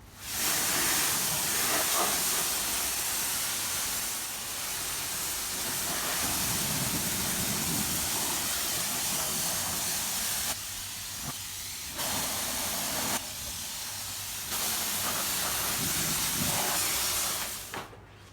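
High-pressure water spray from a self-service car wash wand, a steady loud hiss as the car is rinsed to wet it. The hiss drops back twice for a second or so in the middle, and it stops just before the end.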